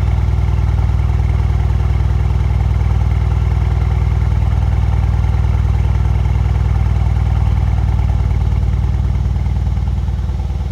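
Mercedes-AMG C63 S Coupe's twin-turbo V8 idling steadily after a cold start, a deep even burble with no revs, dropping a little in level near the end.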